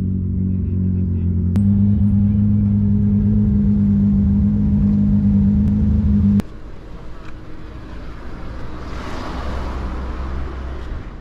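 Ford Fiesta R5 rally car's turbocharged four-cylinder engine idling with a steady, even note. About six seconds in it cuts off abruptly, leaving a quieter outdoor rush that swells near the end.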